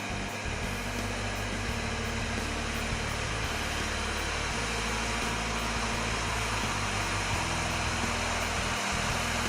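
Case IH 9370 tractor's diesel engine running steadily at idle.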